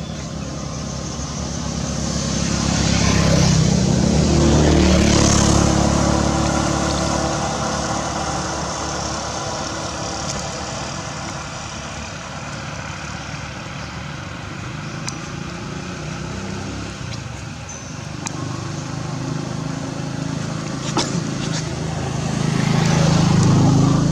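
Motor vehicles passing by, their engine and road noise swelling and fading twice: once about four seconds in and again near the end.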